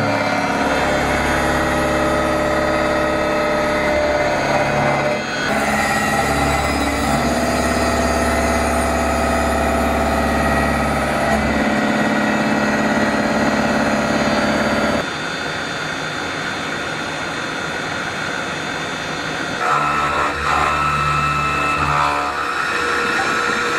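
CNC mill-turn machine running: a steady machine hum with several whining tones. The pitch set shifts abruptly a few times, and the sound is a little quieter for a stretch past the middle.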